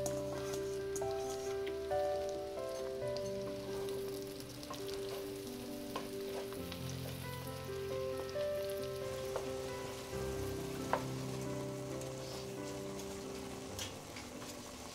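Sliced mushrooms sizzling in a hot pot while a wooden spoon stirs them, with a sharp knock about eleven seconds in. Soft background music with slow, held notes plays over it.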